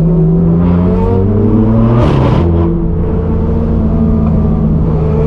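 Straight-piped BMW M4 F82's twin-turbo inline-six exhaust running loud under steady throttle, its pitch slowly rising. About two seconds in, a brief rasp breaks in as the pitch drops, then it climbs again.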